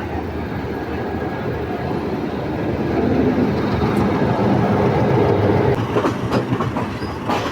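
Passenger train moving slowly in reverse, its wheels clattering over the rail joints with a steady rumble. The rumble grows louder about three seconds in, and a few sharp knocks come near the end.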